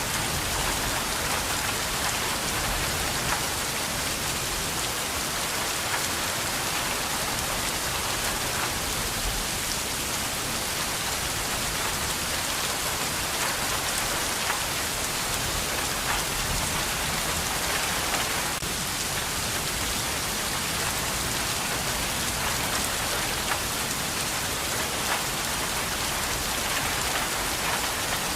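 Steady rain falling on a surface, an even patter with no breaks or swells.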